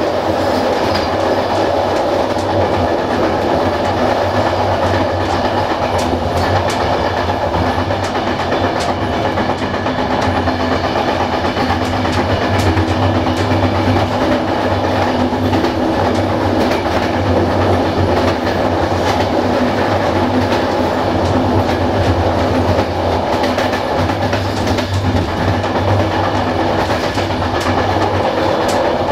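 Passenger train running along the track, heard from its rear: a steady rumble of the wheels on the rails with a constant low hum and irregular clicks and knocks as the wheels cross rail joints.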